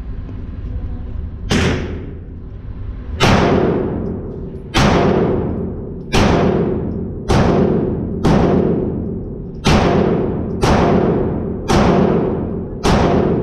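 Glock 19 Gen 4 9mm pistol fired ten times in slow, deliberate succession, a shot about every one to one and a half seconds. Each report booms and rings on in the reverberation of an indoor range.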